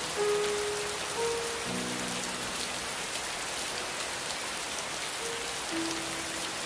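Steady rain falling in an even hiss, with a few soft held notes of slow ambient music changing pitch underneath.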